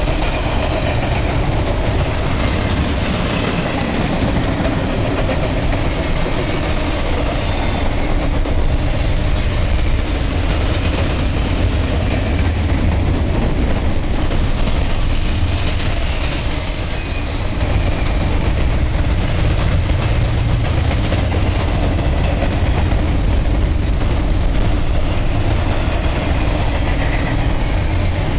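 BNSF double-stack container freight train passing close by: a continuous heavy rumble and clatter of steel wheels on rail. About halfway through, a mid-train distributed-power diesel locomotive goes past, adding its engine to the noise.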